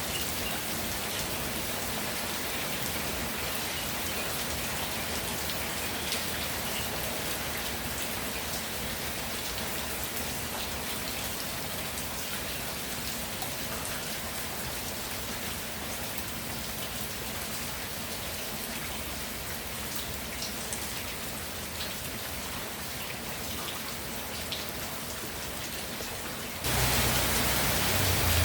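Steady rainfall with scattered drop ticks, becoming suddenly louder and fuller near the end.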